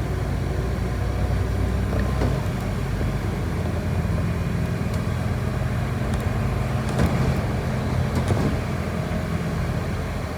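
City bus driving, heard from inside: a steady engine hum and road noise, with a few light clicks and rattles.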